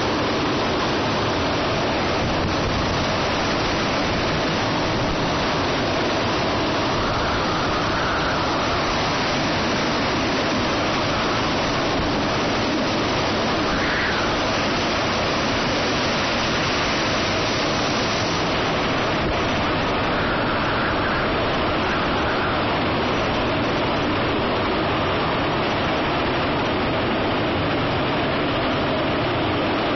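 Typhoon wind and rain in a steady, loud, unbroken rush, with a few faint rises in pitch as gusts come through.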